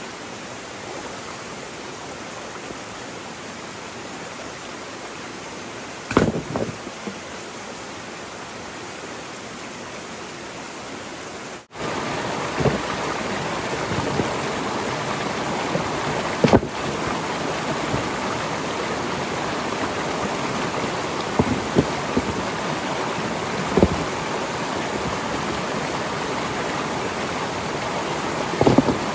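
Steady rush of flowing water, with a few scattered knocks. It becomes louder after an abrupt cut about twelve seconds in.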